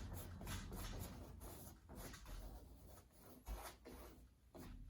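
Faint, quick scratchy swishes of a fan brush stroked downward over a canvas with thinned white acrylic paint, several strokes in a row that thin out after about two seconds, with a soft low thud about three and a half seconds in.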